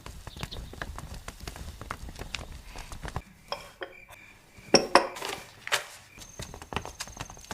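Light clicks and knocks over a low rumble for about three seconds, then a few sharp clinks of dishes or utensils being handled, the loudest about five seconds in. Near the end a high, steady pulsing tone begins.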